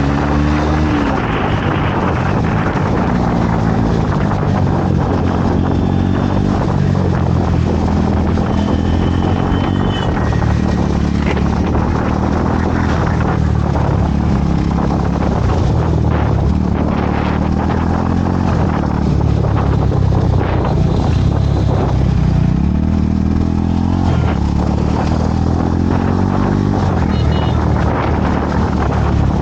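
Motorcycle engine running on the move, its pitch climbing and dropping several times as it speeds up and changes gear, over a steady rush of wind and road noise.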